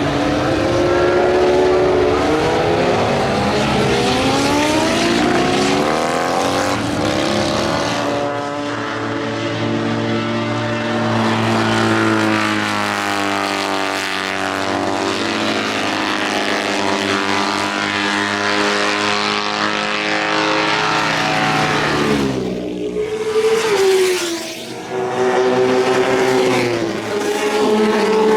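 Motorcycle engines on a race circuit, revving up and down through the gears as bikes pass, with a short dip about three-quarters through before another bike accelerates away.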